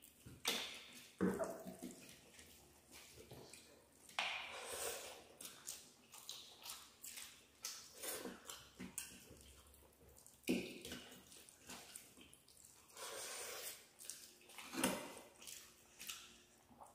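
Wet chewing and lip-smacking of people eating rice and curry with their hands, in irregular bursts, with a few sharp clicks such as one about a second in.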